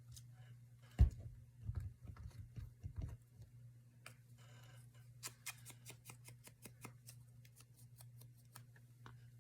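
Craft materials being handled on a work table: a thump about a second in and a few knocks, then a run of quick clicks, over a steady low hum.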